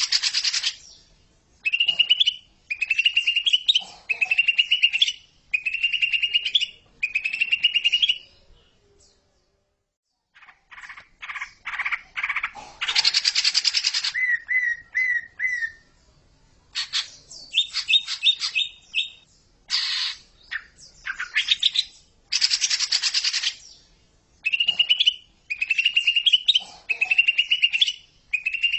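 Cucak ijo (green leafbird) singing: a run of short rising chirping phrases about one a second, a pause of about two seconds near the middle, then a stretch of fast varied notes and trills before the rising phrases return.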